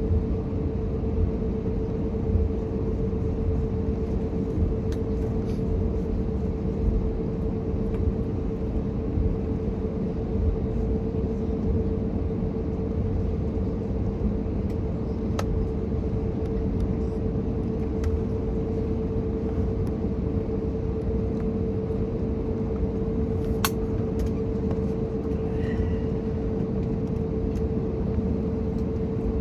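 Steady cabin drone of an Airbus A321neo in flight: its CFM LEAP-1A engines and the airflow over the fuselage make an even low rumble with a constant hum tone through it. A few faint clicks sound over it.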